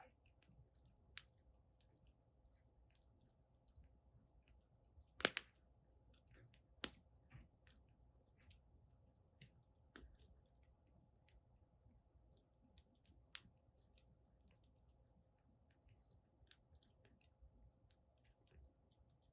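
Wood fire crackling, with sparse sharp pops and ticks from the burning firewood. Two louder pops come about five and seven seconds in.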